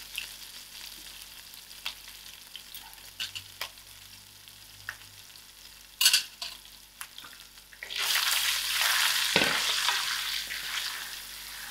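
Onions, chillies, curry leaves and seeds sizzling in hot oil in a stainless steel pot, with a few light clicks and a sharp tap about halfway. About two-thirds of the way through, the sizzling grows louder as the ground spices are stirred into the oil with a wooden spoon.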